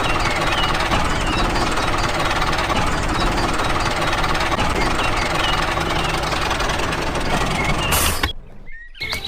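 A motor running steadily with a fast, rattling pulse, with small bird-like chirps over it. It cuts off abruptly about eight seconds in.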